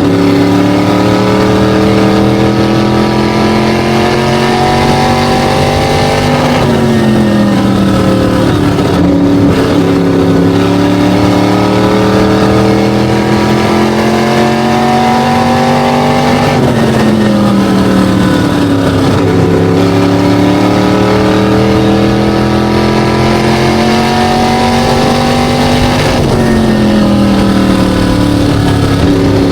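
SK Light modified race car's V8 engine running hard on an oval. Its pitch climbs steadily for several seconds, then drops sharply three times, about every ten seconds, as the throttle is lifted for the corners.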